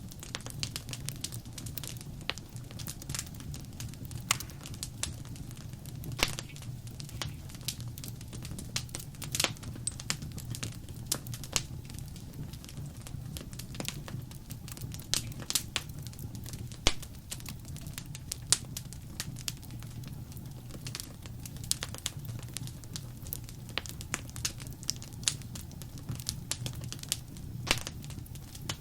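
Wood fire crackling: frequent, irregular sharp pops and snaps over a steady low rumble of the flames.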